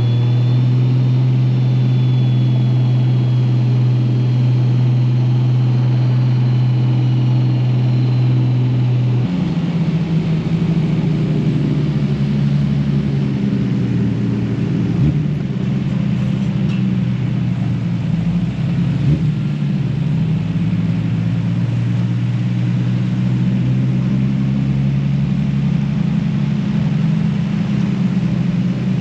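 Nissan Skyline R34 GT-R with a big-turbo RB26 twin-cam straight-six, running at low speed as the car rolls slowly. The steady engine note steps up in pitch about nine seconds in and holds there, a little rougher.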